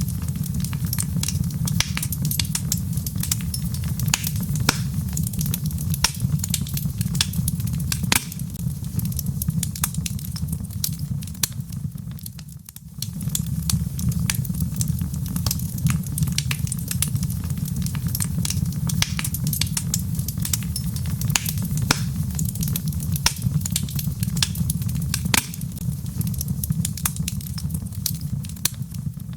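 Wood fire burning in a fireplace: a steady low rumble of flames with frequent sharp crackles and pops from the logs. The sound briefly drops away a little under halfway through, then carries on.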